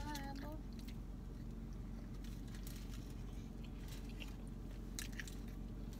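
Close-mouthed chewing of a McChicken sandwich, with scattered faint wet clicks of the mouth, over a steady low hum.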